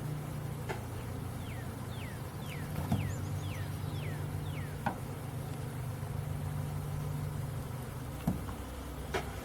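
Steady low hum, with a bird repeating a short whistle that falls in pitch about seven times in quick succession, and a few sharp knocks scattered through.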